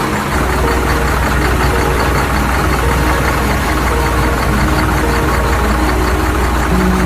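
Tractor engine idling steadily, a constant low hum that starts about a third of a second in.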